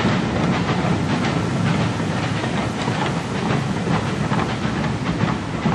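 Steam-hauled passenger train's coaches rolling past with a steady rumble, the wheels clicking over the rail joints.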